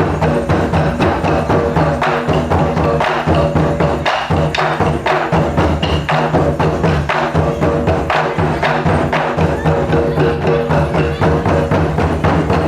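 Percussion-driven music: fast, evenly repeated drum and wood-block-like strikes over a sustained low pitched backing, kept up at a steady loud level.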